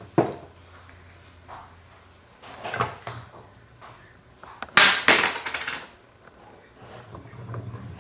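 Household knocks and bumps of hard objects, with a louder clatter of several quick strokes about five seconds in.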